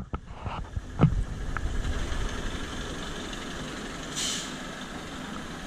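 A truck engine running steadily, with a short hiss of air about four seconds in. A few knocks and a louder thump come in the first second.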